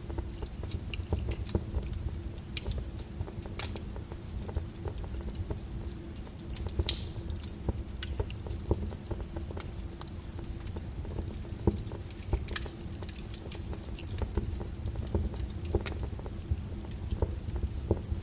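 Fire in a fireplace crackling, with irregular snaps and pops over a steady low rumble of the flames; one louder pop about seven seconds in.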